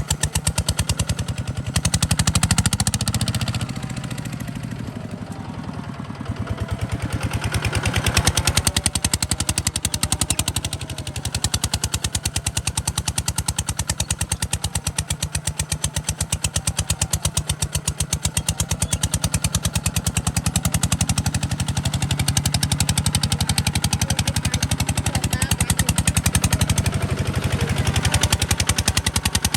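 Kubota RT140 DI single-cylinder diesel engine running with a fast, steady thudding beat. It eases off for a few seconds about four seconds in, then picks back up.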